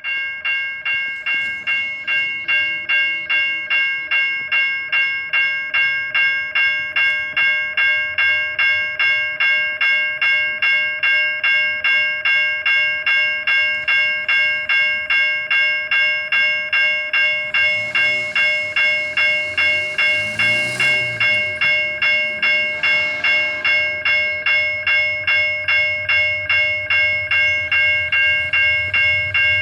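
Railway level-crossing warning bell ringing steadily, about two strokes a second, as a diesel freight train approaches. Louder train noise swells around the middle, and a low locomotive rumble builds toward the end.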